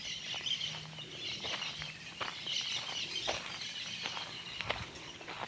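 Outdoor rural ambience: birds chirping over a steady high background, with scattered light clicks and taps.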